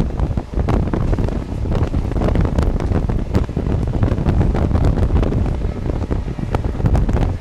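Wind buffeting the microphone at the open window of a passenger train coach running at full speed, over the low rumble of the wheels on the track, with scattered sharp clicks.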